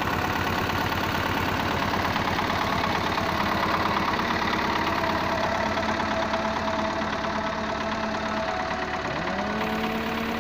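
An engine running steadily at idle with a knocking, pulsing beat, then rising in pitch as it is revved about nine seconds in.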